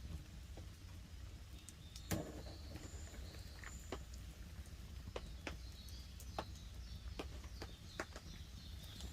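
Wood campfire crackling, with irregular sharp pops and snaps and one louder pop about two seconds in, over a low steady rumble.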